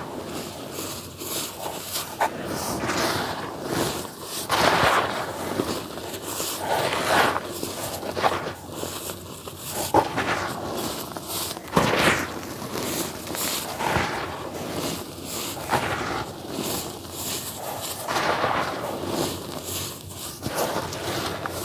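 Dry earthy dirt being crumbled in a tub: gritty crunching and crumbling that swells every second or two, with a few sharp cracks of clumps breaking.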